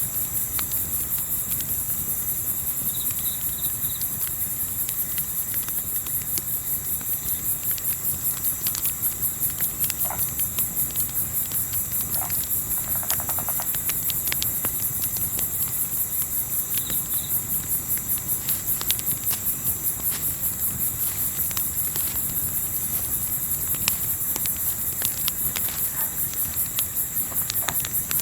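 Crickets chirring in a fast, steady pulse, high-pitched and continuous, with scattered faint crackles from a campfire.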